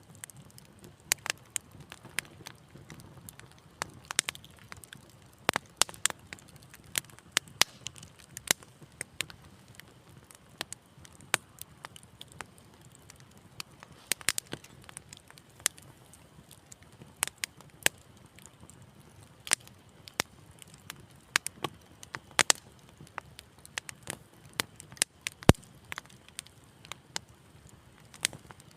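Wood fire crackling in a fireplace: irregular sharp pops and snaps, a few a second, over a soft low rumble of the flames, with one louder pop about 25 seconds in.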